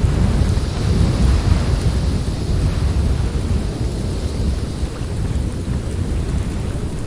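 Snowstorm wind: a continuous low, rumbling rush with a hissing gust that swells about a second in and eases off a few seconds later.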